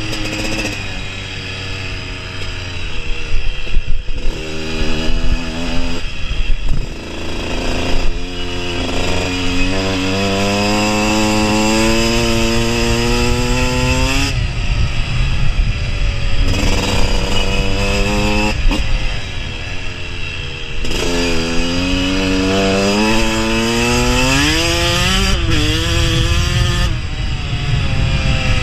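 KTM dirt bike engine revving hard on the flat track, its pitch climbing in long pulls through the gears. Between the pulls the throttle is closed and reopened several times.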